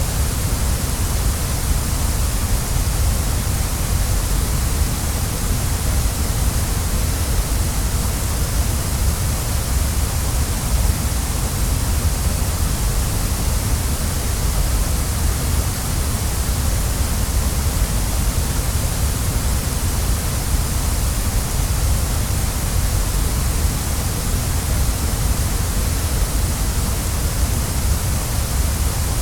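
Waterfall: a steady, unbroken rush of falling water, strong in the deep low end and in the high hiss, with no change throughout.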